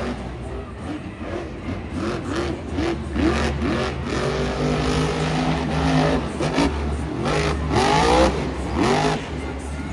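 Monster truck engine revving hard, its pitch rising and falling in quick repeated surges over a steady low rumble.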